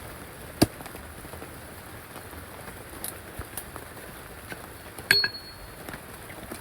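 Steady rain hiss, with a sharp knock about half a second in and a short clink about five seconds in.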